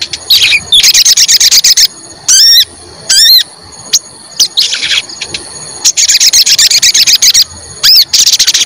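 Sogon bird calling loudly: runs of fast, high chirping trills broken by short gaps, with two quick curving whistled notes early on and another near the end. This is the 'cuit cuit' call used by keepers to get other sogon to answer.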